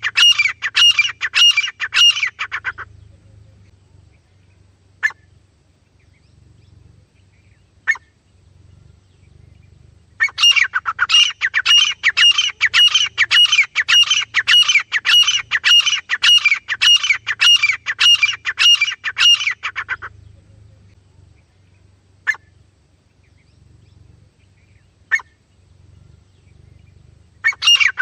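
Francolin (teetar) calling loudly in long bouts of fast, repeated, shrill notes, about four a second. The first bout stops a few seconds in, a second bout runs through the middle for about ten seconds, and a third starts near the end, with a few single short notes in the gaps.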